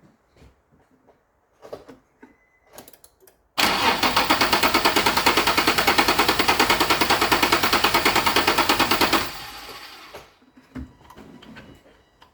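Nissan 350Z's 3.5-litre V6 being cranked over by the starter for about five seconds for a compression test, a fast, even chugging that cuts off when the key is released, without the engine catching.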